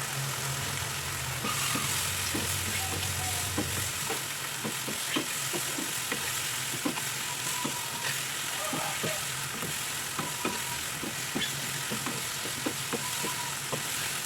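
Food stir-frying in a pan, sizzling steadily, with repeated short knocks and scrapes of a spatula against the pan. A low hum stops about four seconds in.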